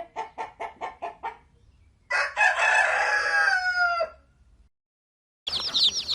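Rooster clucking quickly about seven times, then crowing once, a call of about two seconds that falls in pitch at its end. Near the end, after a brief silence, dense rapid high-pitched chirping begins.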